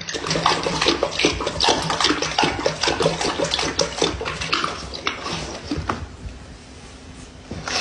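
Water splashing and sloshing in quick, irregular strokes, busy for about six seconds and then quieter.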